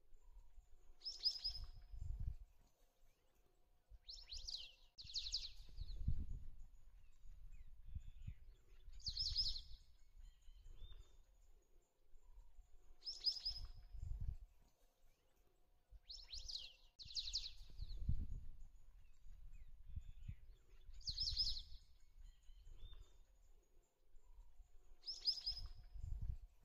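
A bird repeating a short, high phrase of a few quick notes about every four seconds, sometimes twice in a row, over irregular low rumbles.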